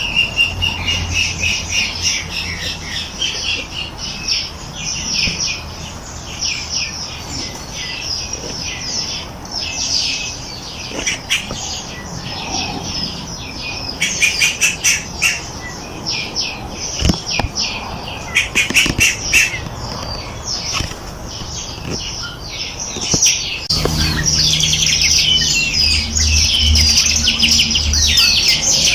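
Many small birds chirping and trilling together, a dense chorus of high, quick notes with bursts of rapid repeated notes. Near the end a low hum joins the birdsong.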